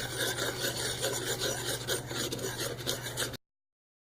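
A utensil stirring liquid in a cup, scraping and rubbing against the cup's sides as citric acid, food colouring and dish soap are mixed into the water. It cuts off abruptly to dead silence about three and a half seconds in.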